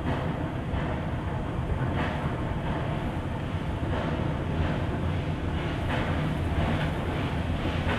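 Narrow-gauge steam train running, with a steady low rumble and a faint regular beat about once or twice a second.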